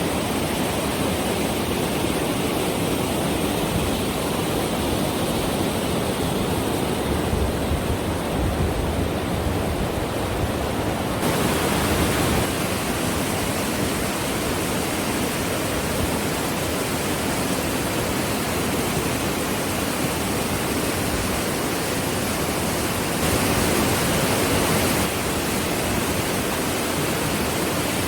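Rushing white water: a steady, even rush that turns brighter about eleven seconds in and is briefly louder near the end.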